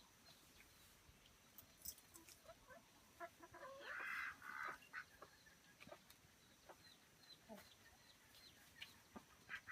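Free-range chickens clucking faintly in short scattered calls, with one louder, longer hen call about four seconds in.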